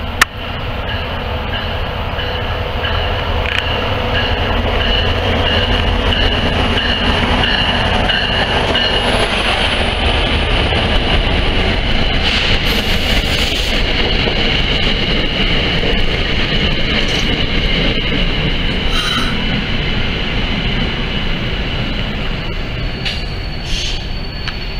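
NJ Transit commuter train rolling along a station platform: a heavy, steady rumble of wheels and coaches, with a thin high wheel squeal held throughout. The sound builds over the first few seconds as the train comes alongside, and there is one sharp click at the very start.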